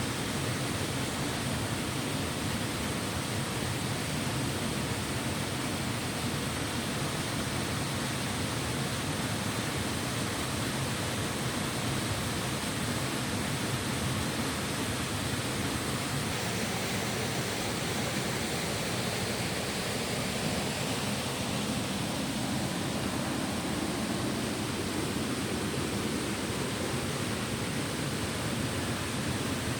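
Steady rushing of a mountain stream: an even wash of water noise that does not change in level.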